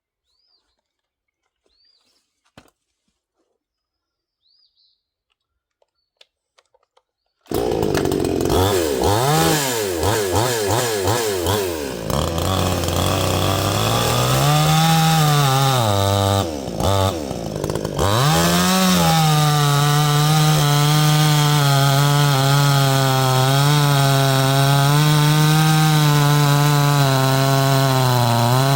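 Near silence with a few faint clicks, then about seven seconds in a 62cc two-stroke gas chainsaw comes in suddenly at high revs. Its pitch swings up and down and dips briefly twice, then it holds a steady high pitch with a slight waver, as when cutting through a log.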